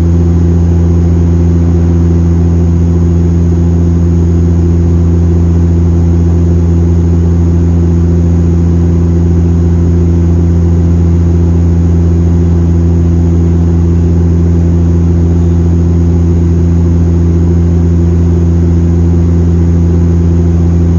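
Airplane engines droning steadily, heard from inside the passenger cabin: a loud, even hum with strong low tones over a rushing noise.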